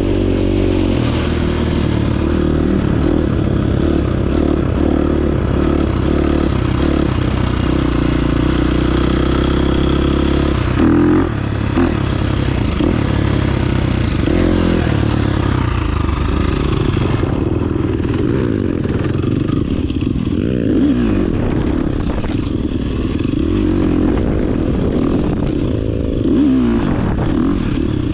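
Dirt bike engine running as it is ridden, its pitch rising and falling with the throttle and gear changes.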